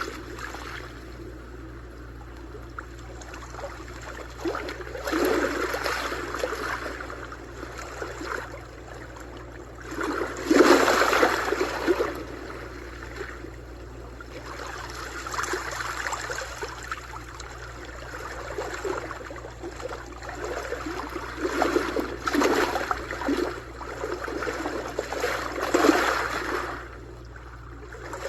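Sea waves washing in and drawing back in about five swells of surf, the loudest a little after ten seconds in, over a steady low rumble.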